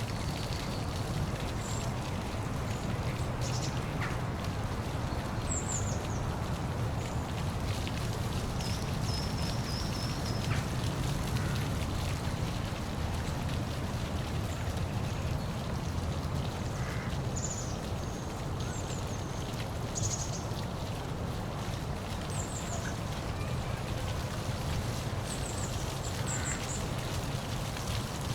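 Steady rushing of a waterfall, with short, high bird chirps scattered over it.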